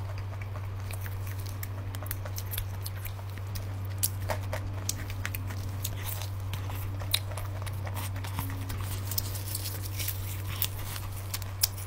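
Close-miked chewing and biting of nem chua (Vietnamese fermented pork roll), with sharp irregular mouth clicks and smacks. A steady low hum runs underneath.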